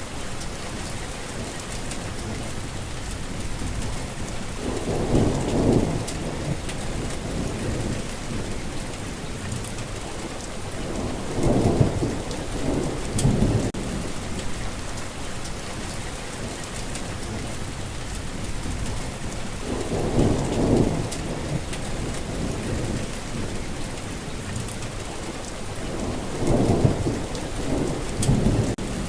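Heavy rain falling steadily, with four separate low rolls of thunder rumbling through it.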